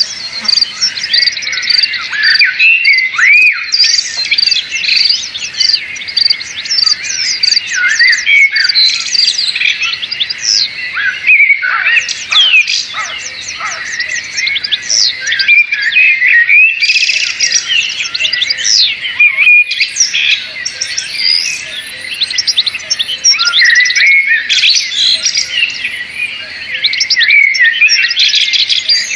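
Many birds chirping and calling at once: a dense, continuous chorus of short chirps, quick rising and falling sweeps and rapid trills.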